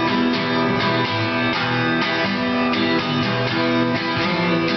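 Acoustic guitars strumming chords, an instrumental stretch with no singing.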